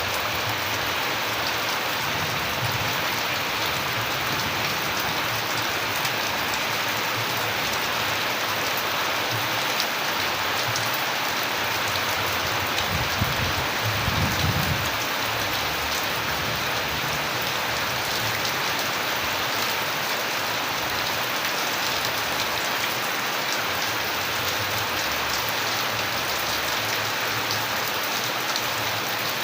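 Steady rain, a dense even patter of drops, with a brief low rumble about halfway through.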